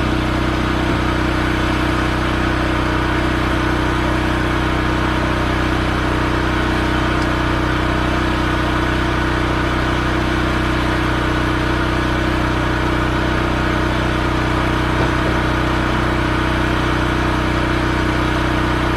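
Pressure washer running steadily, its motor a constant drone under the hiss of the high-pressure spray.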